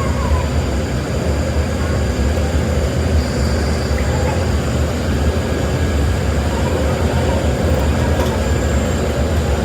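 Steady low rumble of running workshop machinery, unbroken and even throughout.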